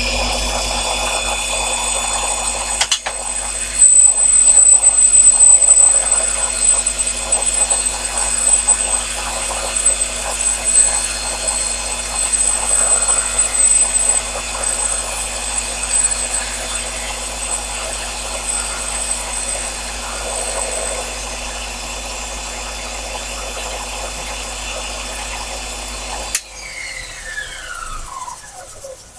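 Sherline mini lathe running at raised speed while a high-speed steel tool takes a finishing cut on aluminium turned between centres, with a thin high whine through much of the cut. Near the end the motor is switched off and the spindle winds down, its pitch falling.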